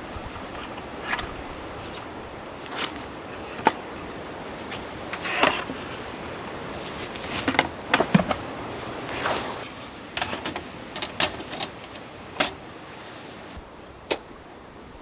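Irregular sharp clicks and knocks, about a dozen, with a few longer rustling scrapes, over a steady hiss.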